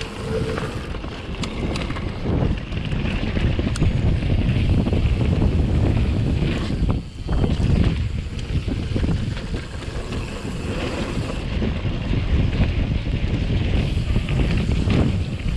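Wind buffeting a GoPro's microphone on a fast mountain-bike descent, with the rumble and rattle of the bike rolling over rough trail. A few sharp clicks come in the first few seconds, and the noise drops briefly about seven seconds in.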